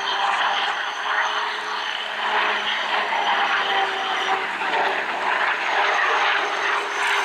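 Helicopter turbine engines and rotors running: a steady, loud whining hiss with several held tones.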